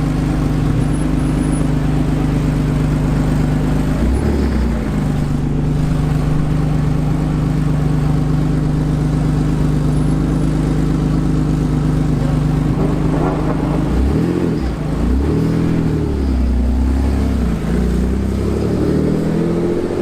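An exotic sports car's engine idling steadily, with a quick throttle blip about four seconds in. From about fourteen seconds it is revved up and down several times.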